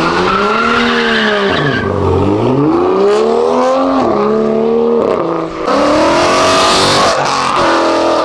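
A performance car's engine revving hard as it pulls away, its pitch climbing and falling several times as it is run up and let off. About two-thirds of the way through a loud hiss of tyre squeal joins it for over a second.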